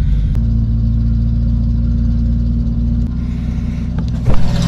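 Tractor engine running steadily, its note shifting and dropping a little about three seconds in. A short sharp knock comes a little after four seconds.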